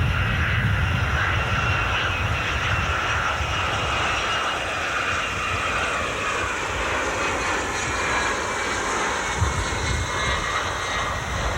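Jet aircraft engines running: a steady rush over a low rumble, with a faint whine that drifts slowly down in pitch.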